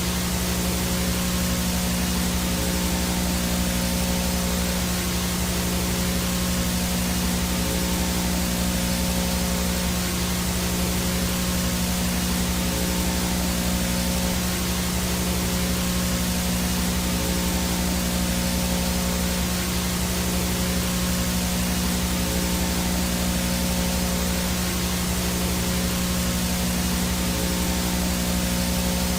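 Analog VHS static: a steady, even hiss with a low hum underneath and a thin high tone above, unchanging throughout.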